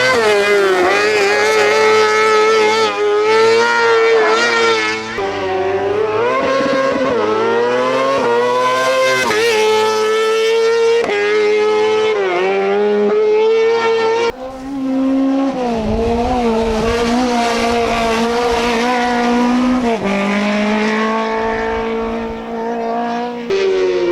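Race car engines at hard throttle, the pitch climbing and dropping again and again through upshifts and lifts. About fourteen seconds in the sound cuts abruptly to a different car's engine, which carries on revving the same way.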